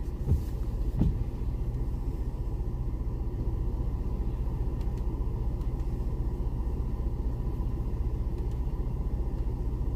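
Four-wheel-drive vehicle's engine running with a steady low rumble, with two short thumps in the first second.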